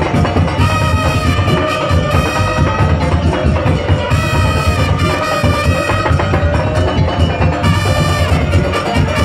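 A Madurese daul (tong-tong) ensemble playing: dense, driving drum and wood-block percussion with a melody line held over it in phrases.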